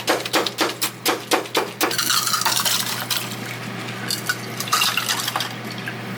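Kitchen dishes and utensils clattering: a rapid run of knocks, about four a second, for the first two seconds, then a wetter rustling, stirring noise with scattered clinks.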